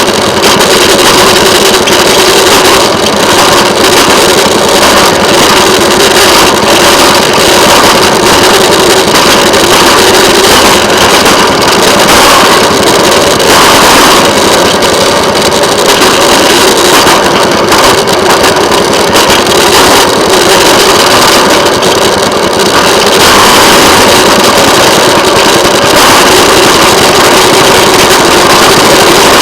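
Small engine of a railway motorcar (speeder) running steadily and loudly while the car travels along the track.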